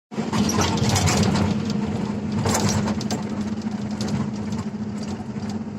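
Heavy diesel engine of earthmoving machinery running steadily, with a few short clattering knocks over it in the first half.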